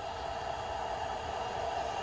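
Distant freight train approaching on the rails: a steady hum that grows slowly louder.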